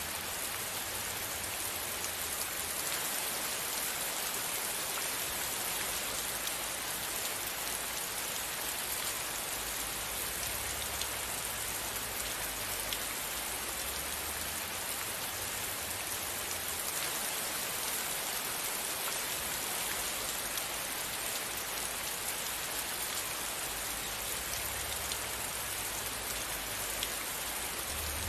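Steady rain falling: an even, unbroken hiss with a few faint scattered drop ticks.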